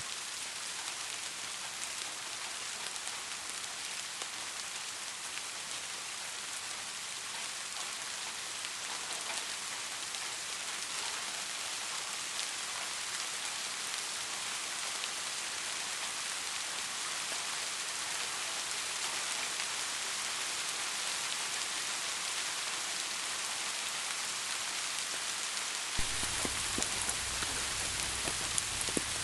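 Steady rain falling, a dense even patter of drops. Near the end the sound turns fuller and deeper, with a few louder single drops.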